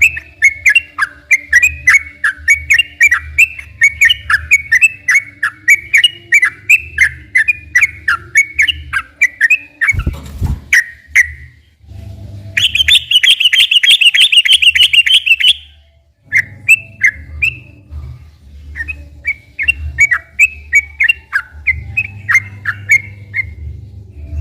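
Yellow-vented bulbul (trucukan) singing: long runs of quick chirped notes, then a loud, fast buzzy trill in the middle before the chirping resumes. A low thump about ten seconds in, and a faint low hum under the song.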